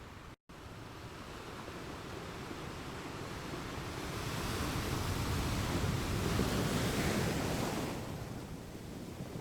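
Ocean surf washing on a shore: a wave swells up about halfway through and eases off near the end. The sound cuts out for a split second just after the start.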